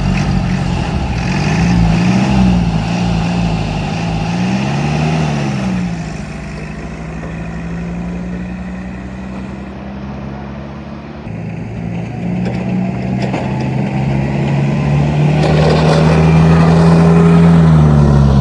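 Diesel forklift engines revving as two forklifts drag race, a 1962 Lancing Bagnall's Perkins 4203 against a 2006 forklift's Cummins. The engine pitch swings up and down over the first few seconds, holds fairly steady in the middle, then climbs again near the end before dropping.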